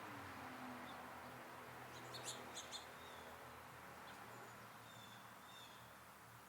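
Small songbirds chirping faintly: a quick cluster of three or four high, sharp chirps about two seconds in, then a few thin whistled notes, over a faint steady low hum.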